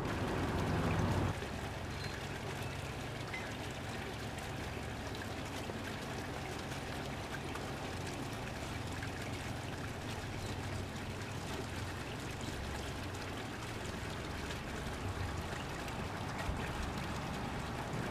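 Steady rolling rumble and hiss of a train running, with a low hum underneath; the level drops a little just over a second in.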